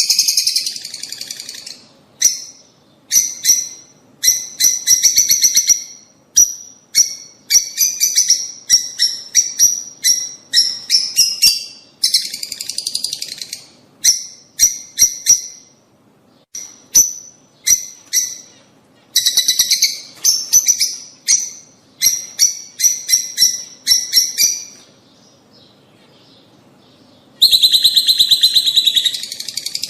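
Lovebirds (rosy-faced and Fischer's) chattering in short, sharp, high-pitched calls, fired in quick runs with a lull about three quarters of the way through and a dense burst near the end: breeding-stimulation calling.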